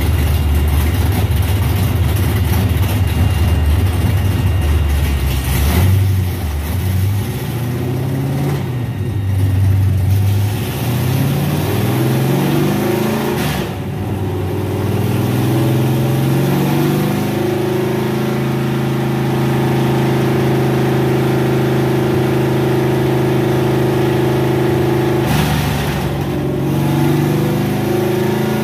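Stroked big-block Chrysler 440 V8 (about 540 cubic inches) in a 1965 Plymouth Fury running on a chassis dyno for a warm-up. It runs loud and low for the first several seconds, then climbs in engine speed and holds steady for about eight seconds. Near the end it drops off briefly and picks up again.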